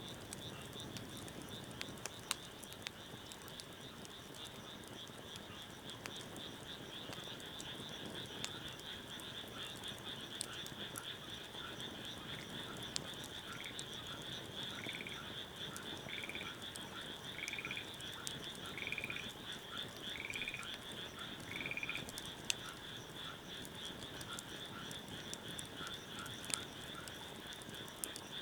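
A chorus of frogs calling, a steady pulsing trill with one frog repeating a pulsed call about six times in the middle. Scattered sharp pops and crackles from a wood fire.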